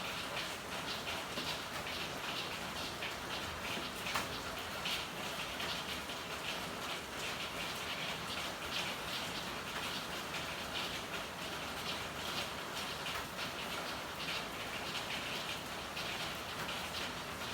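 Steady rain falling in an alley: an even hiss with many close drops tapping. There is one sharper tap about four seconds in.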